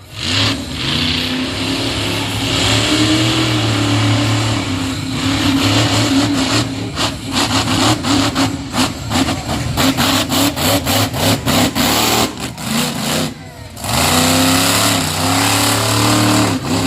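Monster truck engine revving loudly, its pitch rising and falling. Through the middle it breaks into a choppy run of rapid throttle blips. It drops away briefly near the end, then revs up again.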